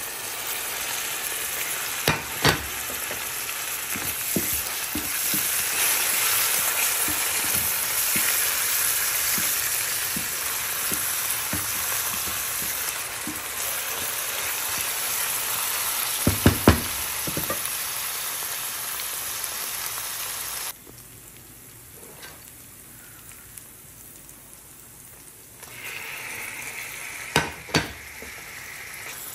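Sliced onions and chopped tomatoes sizzling in oil in a stainless steel frying pan as they are stirred with a spatula, with a few sharp knocks against the pan. About 21 s in the sizzle drops away suddenly and comes back fainter a few seconds later.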